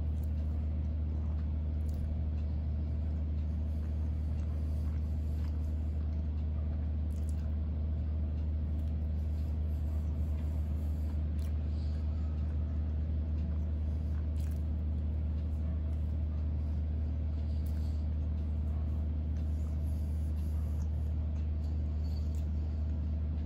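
A steady low hum runs under faint, scattered chewing and mouth clicks of someone eating a mouthful of cake.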